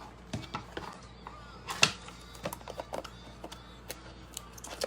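Light scattered clicks and taps of cardboard trading-card boxes being handled, with one sharper knock about two seconds in.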